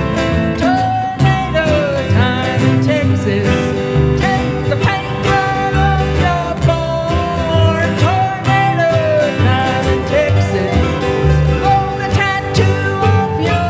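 Live country band playing an instrumental break: strummed acoustic guitar and bass keeping a steady beat under a lead melody line that slides and bends between notes.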